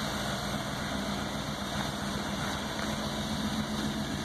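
1960 Chevrolet El Camino's engine idling steadily.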